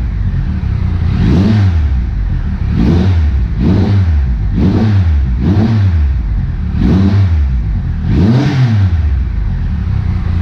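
Triumph Trophy SE's three-cylinder engine blipped repeatedly through a Remus titanium exhaust with the baffle out, loud. Its pitch rises and falls about seven times over an idle.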